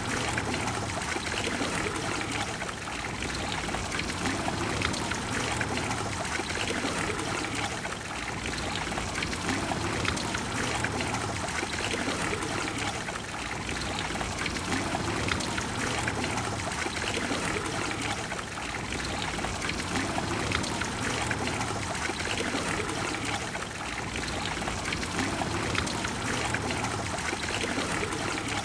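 Water of the Trevi Fountain pouring and splashing steadily into its basin, a continuous rushing with small regular swells in loudness.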